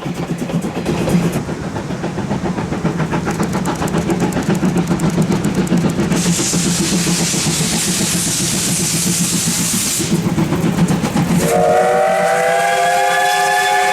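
Steam locomotive C12 66 working hard with rapid exhaust chuffs and a few seconds of loud steam hiss midway. Near the end its steam whistle opens with an upward slide and holds one long, steady, multi-toned blast.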